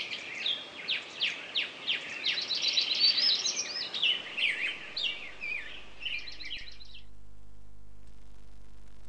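Birdsong: bright chirps, fast trills and quick sweeping whistles, cutting off suddenly about seven seconds in. A steady low hum is left after it.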